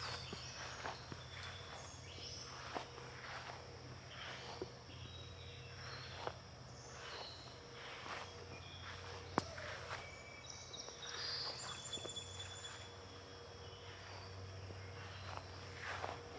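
Footsteps walking at a steady pace, one short step every half second or so, with a steady high insect buzz behind them.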